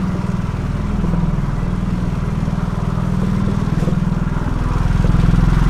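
Motorcycle engine running steadily under way, its low, pulsing note growing louder near the end.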